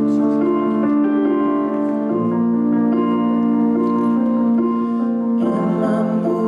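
Keyboard playing slow, sustained chords as the accompaniment to a gospel song. The chord changes about two seconds in and again near the end.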